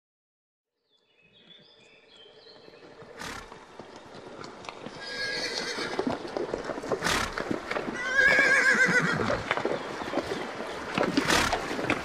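Horse neighing: a wavering whinny about five seconds in and another about eight seconds in, with a few sharp sounds, hoof thuds or snorts, between them. The sound begins after about a second of silence.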